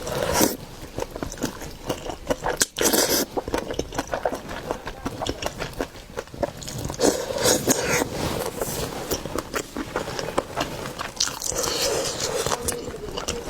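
Close-up mukbang eating of seafood: irregular biting, chewing and mouth smacks, with small crunches and scrapes as meat is pulled off the bones.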